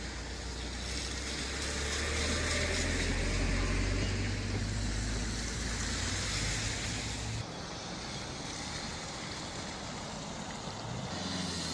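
Vehicle engine hum and road noise, steady and low, changing abruptly about seven seconds in to a different, noisier traffic sound without the low hum.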